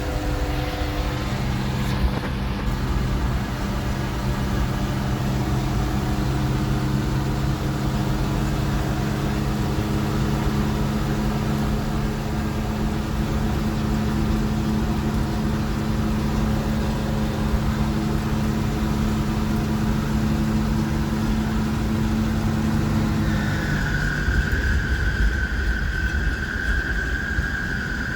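The engine of a 1966 Ford F500 bucket truck running steadily under way. About 23 seconds in, the engine note drops and a steady high whine comes in.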